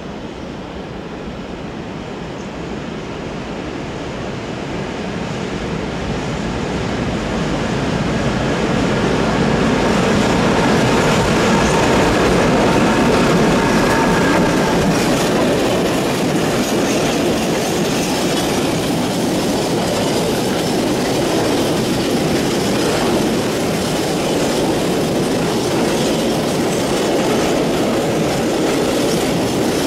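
A Slovenian Railways locomotive hauling a freight train of flat wagons approaches and passes close by. It grows louder over the first ten seconds, with a faint high whine as the locomotive goes past, then holds steady as the wagon wheels clatter over the rail joints.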